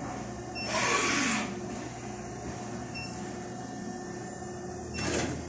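CNC cutting machine running with a steady hum, with two short louder bursts of noise, the first about a second in with a quick falling whine as a motor slows.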